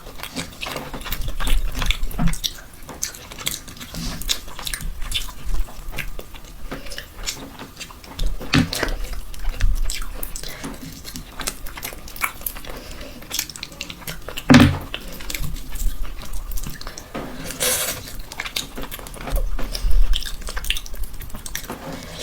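Close-miked mukbang eating sounds: a person chewing and biting into mutton mandi, with many irregular short clicks and a few louder knocks.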